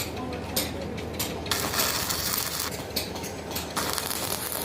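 Metalwork on a stuck engine-head nut: a few sharp metallic clicks, then two bursts of crackling hiss about a second long each.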